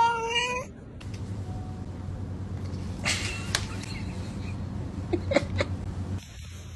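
A cat's long meow that rises slightly in pitch as it ends, followed by a few scattered sharp knocks and clicks.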